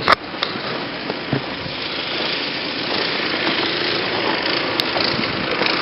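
Gas snowblower running steadily, its small engine and the noise of the blowing snow growing a little louder over the first couple of seconds.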